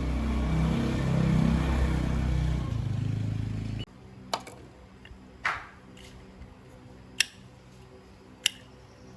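Yamaha 125cc motorcycle engine running, with the pitch lifting slightly midway; it cuts off abruptly a little under four seconds in. A few sharp metallic clicks follow over a faint hum.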